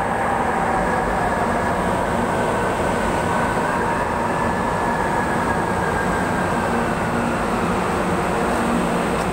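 Metro Rail Transit Line 3 light rail train pulling into the station and braking to a stop: a steady running noise with a motor whine that slides in pitch as it slows and fades out about seven seconds in.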